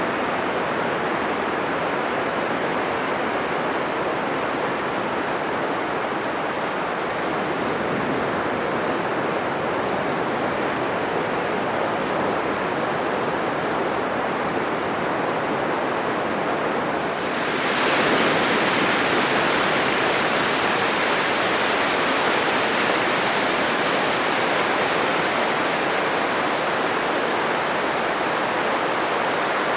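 Atlantic ocean surf breaking on a sandy beach: a steady, dense rushing of waves. A little past halfway it suddenly grows louder and hissier as a bigger wave crashes closer in, and stays at that level.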